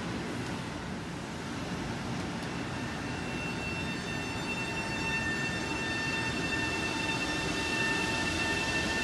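LIRR M7 electric multiple-unit train rolling past on the rails, a steady rumble of wheels on track that grows slowly louder. About four seconds in, a steady high whine joins it.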